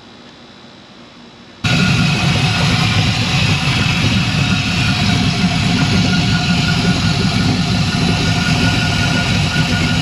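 Quiet room tone, then about a second and a half in the Pontiac Trans Am's engine cuts in suddenly, idling loud and steady.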